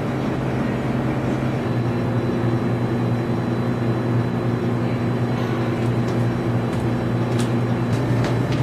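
A steady low mechanical drone with an even hum, like a running engine or machine. A few sharp clicks come near the end.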